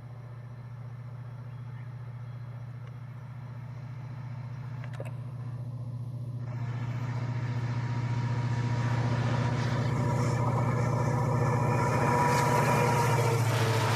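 Indian Railways WDP4 diesel locomotive's EMD two-stroke V16 engine droning steadily as the train approaches, growing louder throughout, with the rumble of the train building from about six seconds in.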